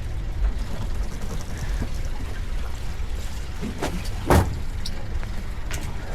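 Boat engine running at idle with a steady low rumble, and a single sharp knock a little past four seconds in.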